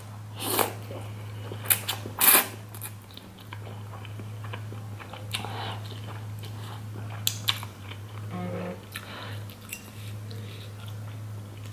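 Close-up mouth sounds of a person chewing instant ramen noodles, with a few short hissing noises in the first few seconds and two light clicks about seven seconds in. A steady low electrical hum runs underneath.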